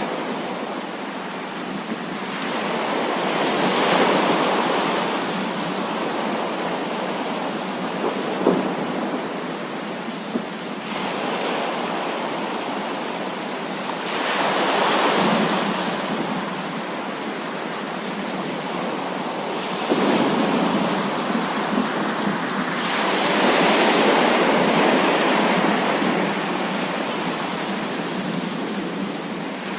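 Heavy rain falling steadily, with rolling thunder swelling up and dying away about five times. A couple of sharp drop ticks stand out from the rain.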